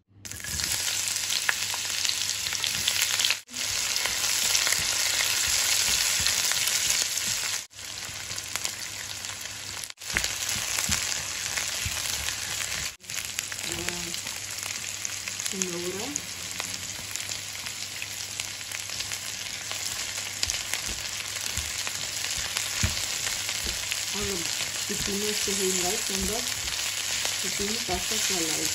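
Sliced carrots, onion and green chilies sizzling as they stir-fry in hot oil in a nonstick wok, with a spatula stirring them in the later part. The sizzle cuts out briefly four times.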